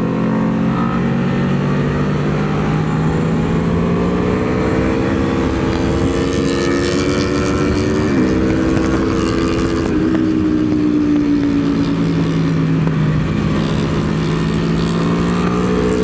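Aprilia Tuono V4's V4 engine heard on board at track speed, its pitch climbing through the revs, with a quick break like a gearshift about eight seconds in, then dropping off as it slows and rising again near the end. Steady wind noise runs underneath.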